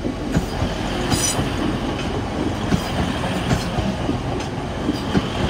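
Class 185 diesel multiple unit passing close by: a steady rumble of wheels on rail, with its wheels clicking now and then over rail joints.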